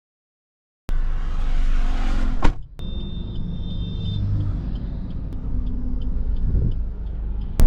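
A car running with a low rumble, starting abruptly about a second in. A short high electronic beep sounds for about a second and a half a few seconds in, and faint regular ticks follow, about two a second.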